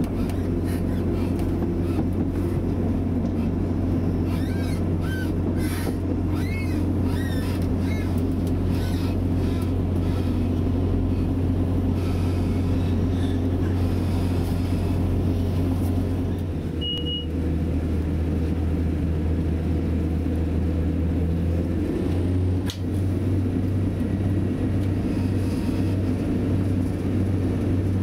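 Class 175 diesel multiple unit heard from inside the passenger saloon while running: a steady low diesel engine drone with wheel and rail noise. A few faint high squeals come between about four and nine seconds in, and a brief high beep comes near the middle. The engine note shifts twice in the second half.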